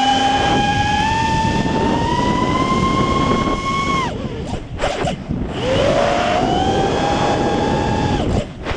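5-inch quadcopter's motors whining. The pitch climbs slowly, then drops off sharply about four seconds in as the throttle is cut. It spools back up with a rising whine a second and a half later and cuts again near the end, with wind noise underneath.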